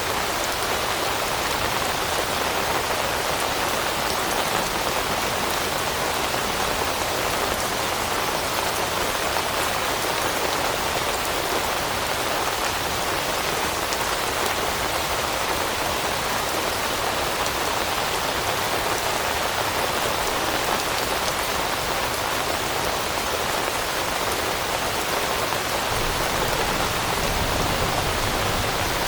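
Steady rain falling on forest leaves, an even, continuous patter with no let-up. A faint low rumble comes in near the end.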